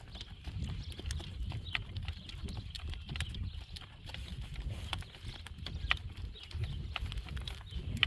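Driving horse's hooves clip-clopping at a walk, with wind rumbling on the microphone.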